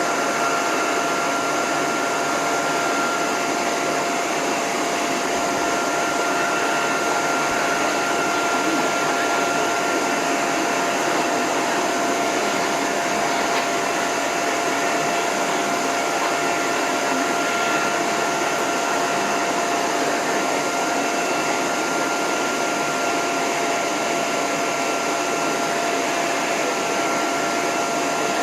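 Dog grooming hose dryer blowing steadily on its lowest setting with the end nozzle off: a constant rush of air over a steady motor whine.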